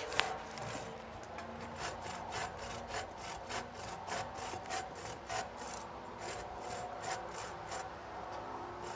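Hand saw cutting through a dead tree limb in quick, even back-and-forth strokes, about three a second, after a sharp click at the very start.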